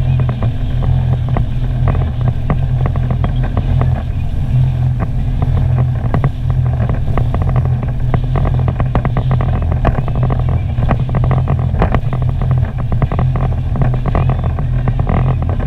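Sea-Doo personal watercraft engine running steadily under way, with many short knocks and splashes over it.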